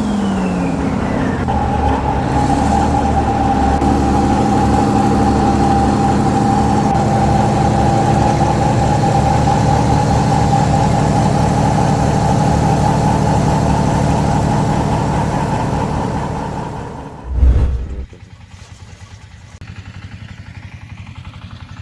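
1959 GM Detroit Diesel 6-71 quad power unit, four two-stroke inline-six diesels geared together, running steadily with a steady whine over the engine note. About seventeen seconds in there is a loud thump, and a quieter Cooper CR14 diesel takes over, running at an even beat.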